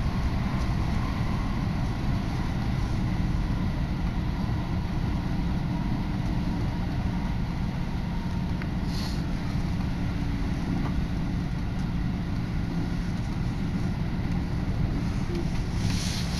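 Inside a Tokaido Line electric train running at speed: steady low rumble of the train with wind rushing in at the window. Brief hisses of air come about halfway through and again near the end.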